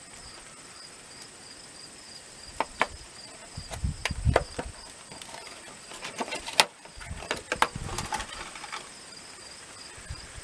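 Insects chirping steadily in a continuous high-pitched drone, with scattered sharp clicks and light knocks of handling from about two seconds in, the loudest near the middle.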